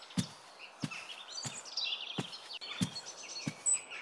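Birds chirping outdoors, with a soft thud repeating evenly about every two-thirds of a second.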